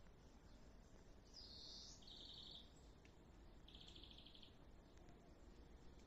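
Small songbird calling faintly: short, rapid trilled calls about a second and a half in, again right after, and once more about four seconds in, over steady low background noise.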